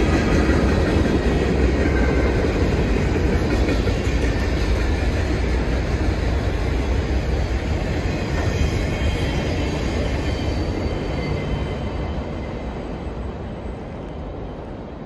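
Freight cars of a manifest train rolling past on steel wheels, a steady rail noise with a faint high wheel squeal about halfway through; the sound fades away over the last few seconds as the end of the train moves off.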